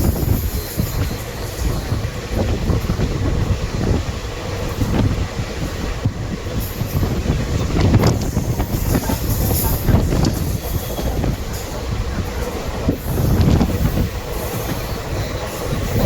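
Passenger train running on the rails: a steady rumble with wheel clatter that swells louder every few seconds.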